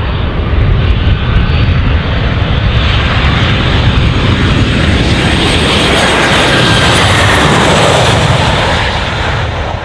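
Airbus A321 jet engines running at high power: a loud, steady rush with a faint high whine that rises a little partway through.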